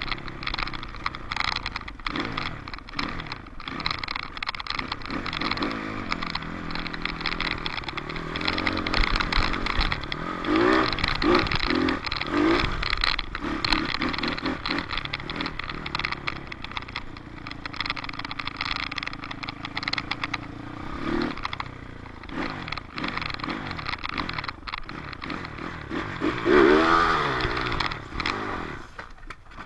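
Dirt bike engine running under way, its pitch rising and falling as the throttle is worked, with a burst of revving about two-thirds of the way in and a louder rev near the end.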